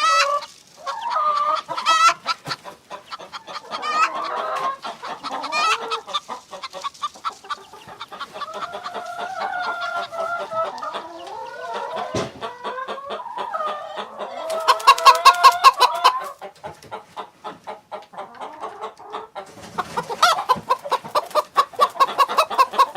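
Chickens clucking, with rapid runs of short clucks and longer drawn-out calls; the loudest, densest flurry of clucking comes about 15 seconds in, and another busy run starts near the end.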